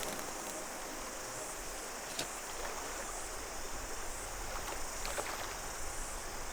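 Small mountain stream running over stones, a steady rushing, with a constant high cicada chorus above it and a few sharp ticks.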